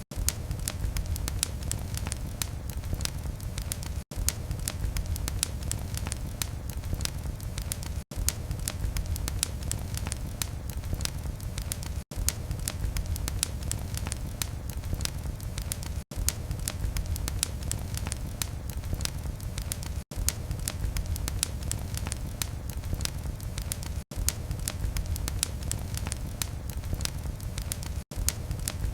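Wood fire crackling in a fireplace: a dense, continuous run of sharp pops and snaps over a steady low rumble of burning.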